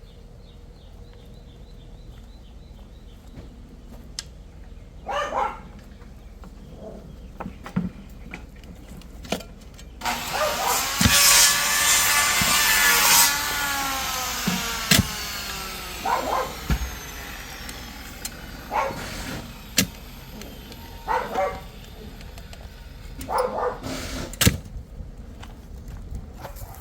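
A motor vehicle driving past: its engine note rises and then falls away over several seconds. Scattered short knocks come before and after it.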